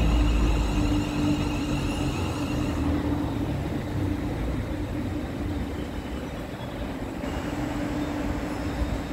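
Class 360 Desiro electric multiple unit running past close by, its wheels rumbling on the track under a steady electric hum. A higher whine fades out about three seconds in.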